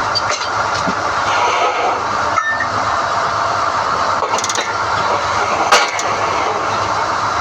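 SDH-1600 core drilling rig running steadily while hoisting NQ drill rods, a loud continuous machine noise. A few sharp metallic knocks come through it, the loudest about six seconds in, with a brief rattle just before.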